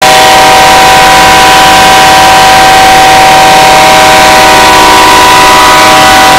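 BNSF freight locomotive's air horn blowing nonstop as a loud, steady chord of several notes. The horn is stuck on, with no engineer in the cab to shut it off.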